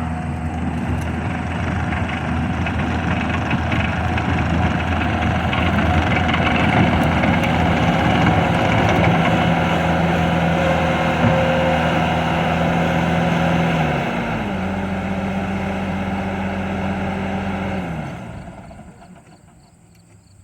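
Diesel engine of a 2010 Bobcat compact track loader running steadily, stepping down in speed about two-thirds of the way through, then winding down and shutting off near the end.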